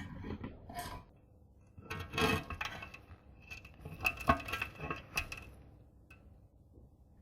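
Small metal parts clinking and knocking together as they are handled, in three clusters of sharp clinks with a short ring after some of them.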